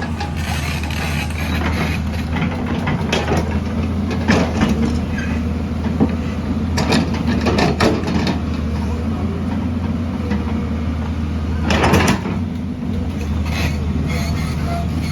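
Heavy construction machine's engine running steadily, with repeated knocks and clanks from the machine at work, the loudest about twelve seconds in.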